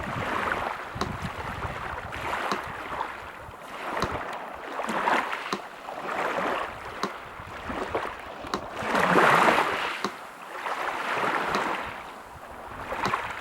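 Sea surf washing in, swelling and ebbing every couple of seconds with one bigger wave about nine seconds in, while a metronome ticks steadily about once a second over it.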